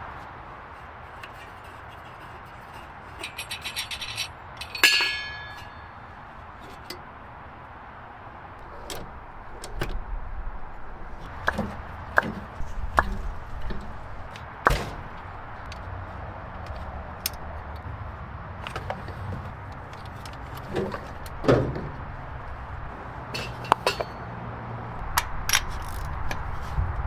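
Scattered knocks, clicks and clinks of hand work with tools and parts: a brief rattle, then a loud ringing metal clink about five seconds in, and several sharper knocks and a thud later on.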